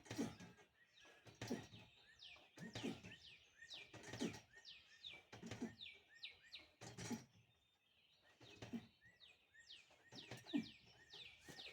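Songbirds chirping repeatedly in short falling notes, faint, with a soft low puff about every second and a half.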